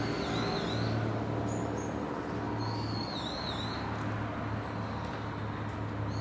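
A bird calling in short, wavering whistles, one phrase at the start and another about two and a half seconds in, over a steady low drone.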